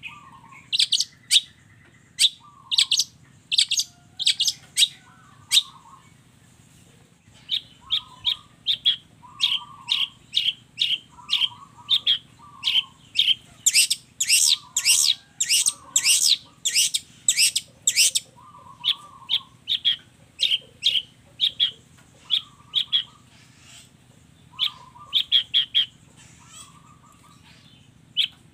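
Long-tailed shrike (cendet) singing: quick runs of sharp, high chirps repeated several times a second, mixed with softer, lower warbling notes. There is a short pause about six seconds in. A faint steady low hum lies underneath.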